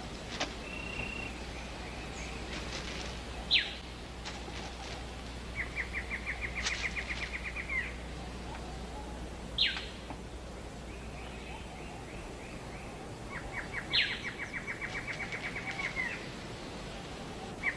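Rainforest ambience with animal calls: a sharp whistle falling steeply in pitch about every five seconds, and twice a rapid trill of even pulses lasting two to three seconds, over a steady background hiss.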